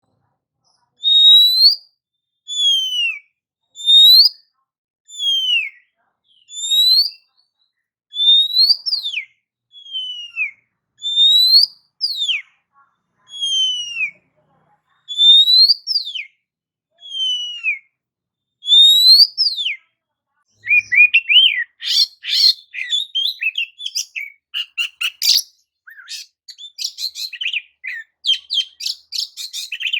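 Oriental magpie-robin (kacer) singing: a series of clear, slurred whistles, alternately rising and falling, about one every second and a half. About two-thirds of the way through it breaks into fast, varied chattering song.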